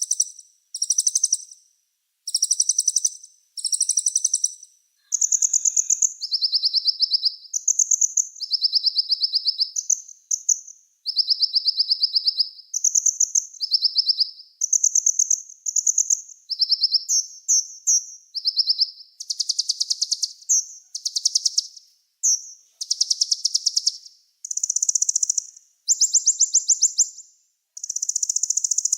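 A small songbird singing high, rapid trills in phrases of about a second each, with short gaps between them; each phrase sits on a fairly steady pitch that steps up or down from one phrase to the next.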